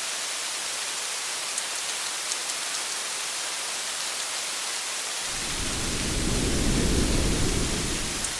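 Steady rain hiss with a few scattered drop taps. About five seconds in, a low rumble of thunder swells, peaks and then cuts off abruptly.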